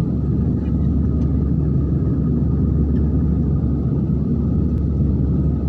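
Steady low rumble of an airliner cabin in flight, with a faint steady whine above it.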